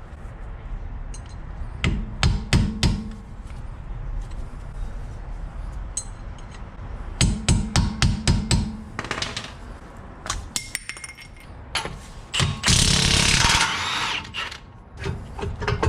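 Tool work on a car: clusters of sharp metallic knocks and clanks, several a second, with a loud hissing burst of noise lasting about a second near the end.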